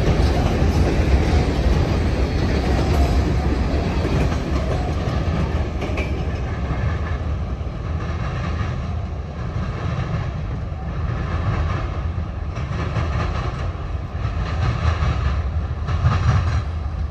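Empty covered grain hopper cars of a freight train rolling past, wheels clicking over the rail joints. The sound eases as the end of the train draws away, leaving a low rumble.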